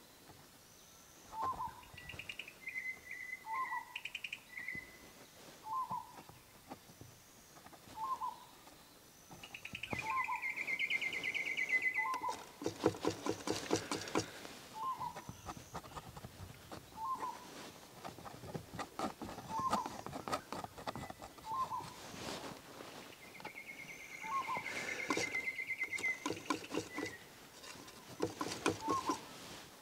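Birds calling: one repeats a short note about every second and a half, while others give bursts of trilling calls. Scratchy scraping comes and goes between them and is loudest about 13 seconds in.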